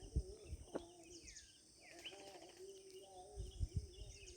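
Faint birdsong: several short chirps and downward-gliding whistles, with warbling lower notes, over a steady high-pitched drone. A few faint low thumps.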